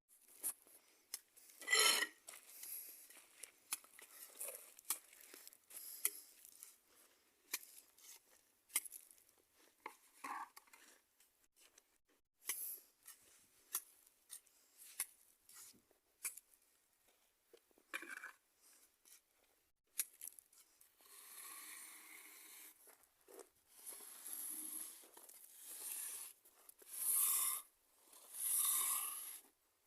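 Trowel scraping and tapping on wet cement mix: scattered short clicks and scrapes, then, from about two-thirds of the way in, a series of longer scraping strokes about a second and a half apart.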